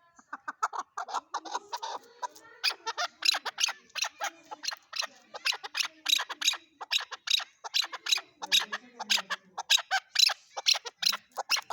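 Chukar partridge calling: a rapid run of short repeated chuck notes, about three a second, growing louder and sharper about two seconds in.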